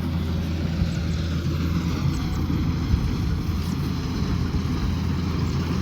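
Combine harvester running steadily: a low, even engine drone with a broad mechanical hiss over it.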